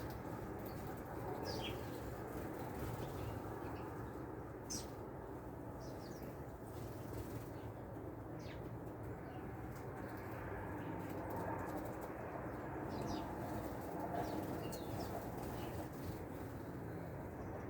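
Scattered short, high bird chirps, about half a dozen, over a steady low background hiss.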